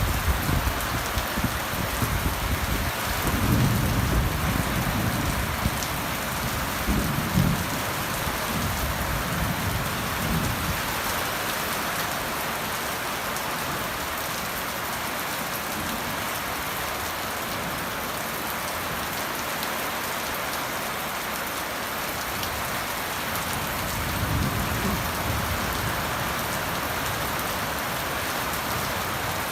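Heavy summer-storm rain falling steadily, with low rumbles a few times in the first ten seconds and once more near the end.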